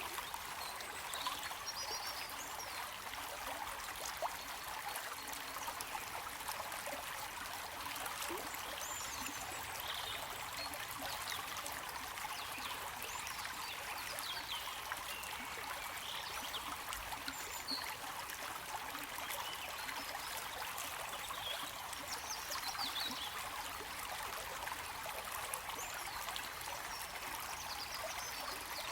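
Stream water trickling and flowing steadily, with faint brief high chirps scattered over it.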